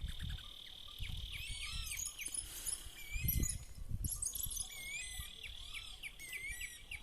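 Countryside chorus: many birds chirping and whistling over a steady high-pitched trill that breaks off for a couple of seconds mid-way, with low rumbling on the microphone.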